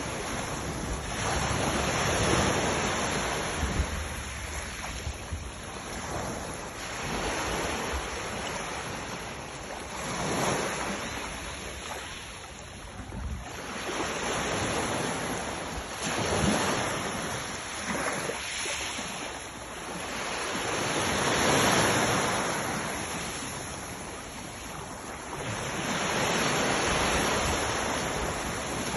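Sea waves breaking and washing in, the surf swelling and falling back every four to six seconds.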